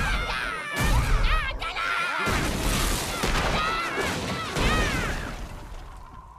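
Cartoon yaks stomping and smashing a log: a series of heavy crashes about a second and a half to two seconds apart, with high rising-and-falling whoops over them, fading away near the end.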